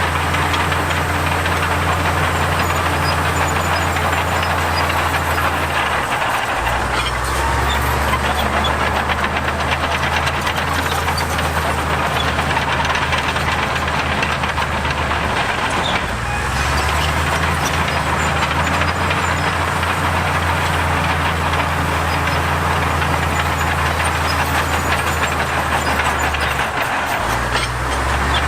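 Diesel engine of a heavy construction machine running steadily, its low pitch dropping about a quarter of the way in, rising again about halfway, and dropping and rising once more near the end.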